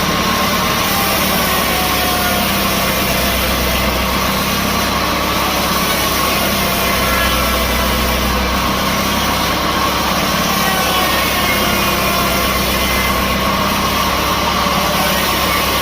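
Sawmill machinery running steadily: a constant mechanical noise with an even whine, unchanging throughout.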